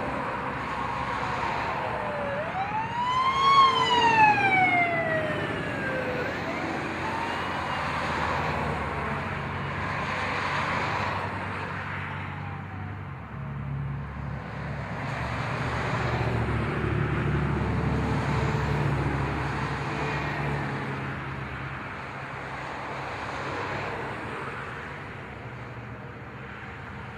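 A vehicle siren wails up and falls once, loudly, a few seconds in, with a fainter second wail just after. Truck engines rumble steadily underneath as vehicles pass.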